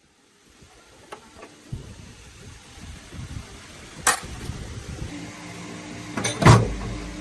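Knocks and clanks of hard objects being handled: a few light knocks early on, a loud sharp clank about four seconds in and a double clank, the loudest of all, near the end, over a low rumble. A steady low hum sets in about five seconds in.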